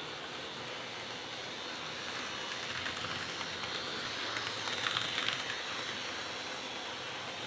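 Roco Pennsylvania Railroad shark-nose model locomotive running on its track, freshly cleaned and lubricated: a steady motor and wheel whir. It grows louder, with a run of light clicks, about halfway through.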